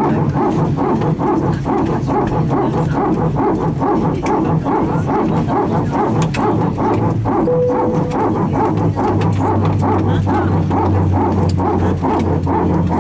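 Airbus A320 power transfer unit (PTU) running, heard from the passenger cabin as a rapid, repeating barking-like pulsing over a steady low hum. The PTU is moving hydraulic power between the aircraft's green and yellow systems, typical when only one engine is running during taxi.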